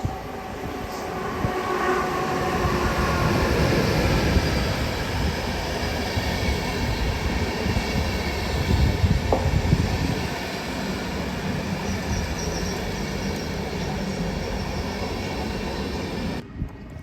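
Electric locomotive X4 E-794 and its passenger coaches running past on the rails, with a steady rumble and wheel noise that builds over the first few seconds. The sound cuts off suddenly near the end.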